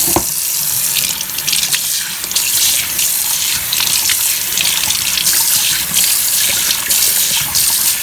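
Water running from a faucet into a sink: a steady hiss of flowing water with irregular splashes.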